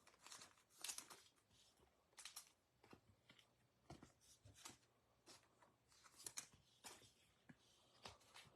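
Faint handling of trading cards and pack wrappers: scattered soft rustles and light ticks, a few to the second.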